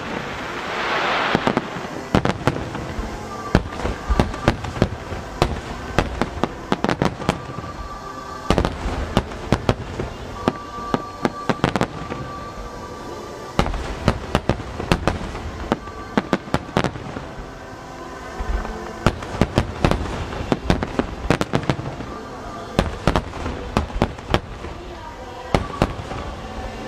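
Fireworks display with dozens of sharp bangs and crackles from aerial shells and rapid-fire barrages, coming in dense clusters of varying loudness. Music plays in the background.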